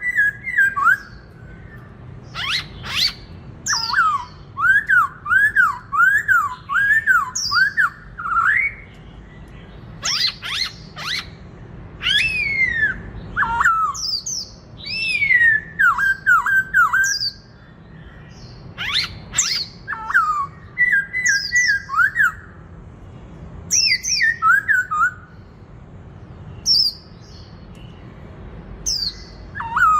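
Black-throated laughingthrush singing in clear whistled phrases, including a run of about six rising-and-falling notes repeated about twice a second, mixed with sharper, higher calls.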